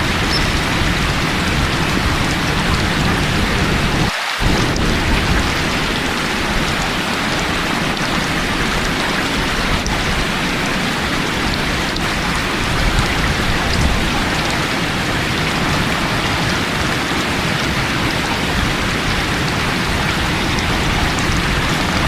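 Steady heavy rain with low rumbling thunder beneath it; the low rumble drops out briefly about four seconds in.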